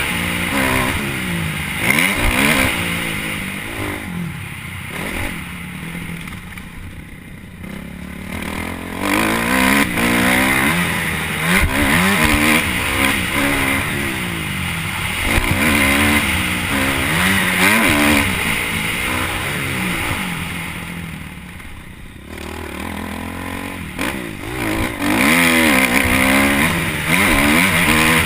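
Motocross bike engine revving hard and easing off over and over, its pitch climbing and dropping with throttle and gear changes, with two quieter off-throttle stretches, one a few seconds in and one about three-quarters of the way through.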